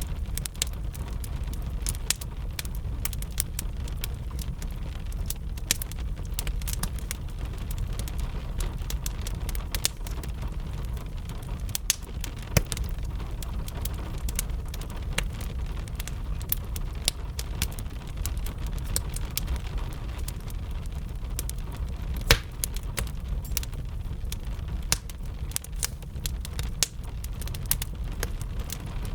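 Wood fire crackling, with frequent sharp, irregular pops over a steady low rumble, and gentle rain in the background.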